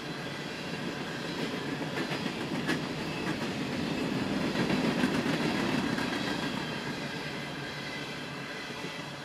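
Empty coal hopper cars of a freight train rolling past, their wheels clacking over the rail joints in a steady rumble. It grows louder toward the middle and eases off near the end as the last cars go by.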